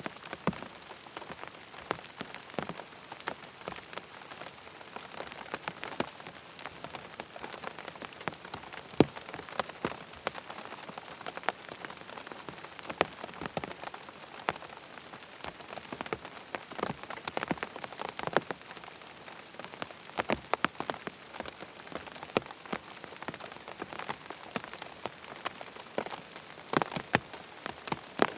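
Steady rain, with many sharp individual drops tapping close by at irregular moments.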